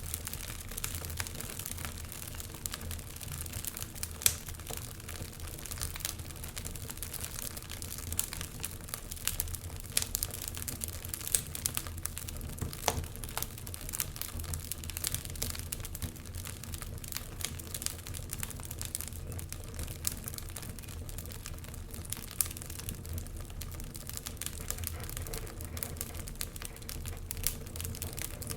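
Wood fire in an open fireplace crackling, with frequent irregular sharp pops and snaps over a low steady rumble.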